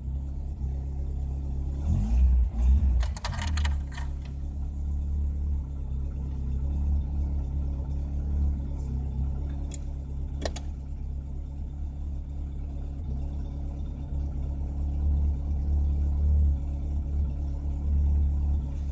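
FSO Polonez Caro 1.5 GLE's OHV four-cylinder engine, running on LPG from cold and settling into a steady idle. It is briefly revved about two seconds in. A few sharp clicks come around three to four seconds in, with another about ten seconds in. The owner calls the engine worn out and beaten, with its bearing shells gone.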